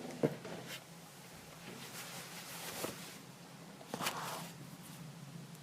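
Quiet room tone with faint hiss and a few soft clicks or taps, the loudest about a quarter second in and another about four seconds in.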